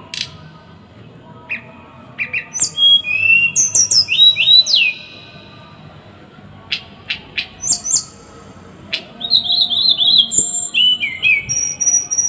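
A small songbird singing in quick bursts of sharp, rasping notes and whistles sliding down in pitch. The two busy phrases are separated by a few scattered clicks and single notes. This is the dense, harsh 'tembakan' style of song used as masteran to tutor caged songbirds.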